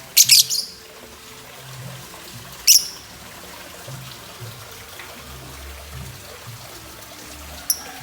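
Lovebird giving shrill, sharp chirps: a quick cluster at the start, another single chirp about two and a half seconds later, and a short one near the end, over background music.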